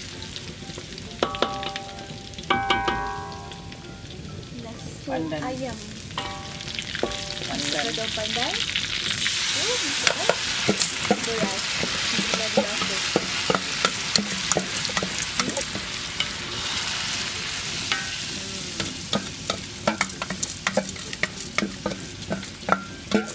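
Garlic, ginger and lemongrass sizzling in butter in a wok as they are stirred, with a few short ringing clinks in the first three seconds. About eight seconds in the sizzle grows much louder as raw rice goes into the hot butter, then eases off after about eighteen seconds, with spatula scrapes and taps against the wok and bowl throughout.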